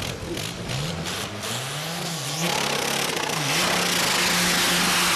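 Car engine revving under acceleration: its pitch climbs and drops back twice, then holds steady under a loud rushing noise that builds.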